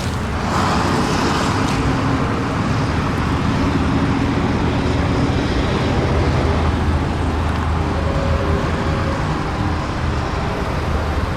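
Mazda CX-5's four-cylinder engine idling steadily with its hood open, with a brief rush of noise about half a second in.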